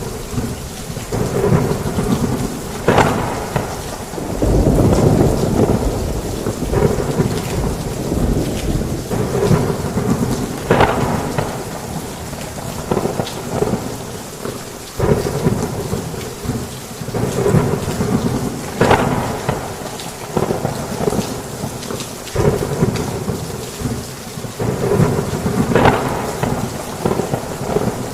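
Heavy rain falling steadily through a thunderstorm, with thunder breaking in several times: a long low rumble about five seconds in and sharp claps every few seconds after.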